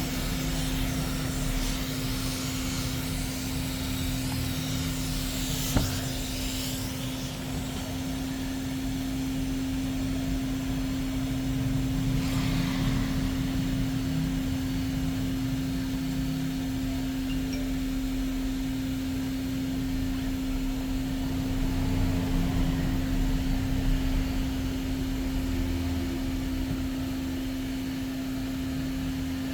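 Steady machine hum with a constant low tone and a broad hiss, and one sharp click about six seconds in.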